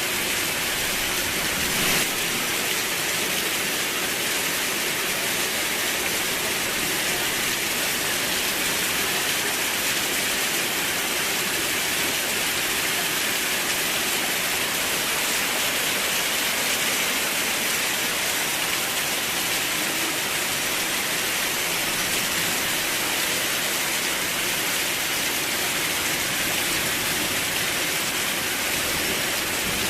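Steady rain falling, an even, unbroken hiss that is brightest in the upper range, with one small tap about two seconds in.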